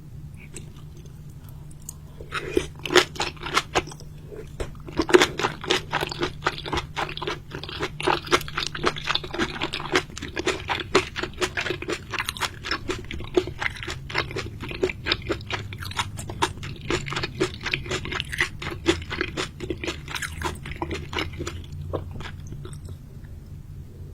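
A person eating seafood close to the microphone, chewing with rapid crisp crunches. The crunching starts about two seconds in and dies away near the end, over a low steady hum.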